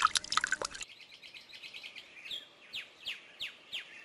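Songbird singing: a run of quick, high, downward-sweeping chirps, about three a second, that begins about a second in. Before it come a few short clicks.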